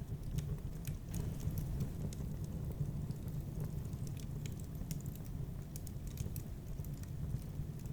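Fire crackling in a fireplace: scattered, irregular sharp crackles and pops over a steady low rumble.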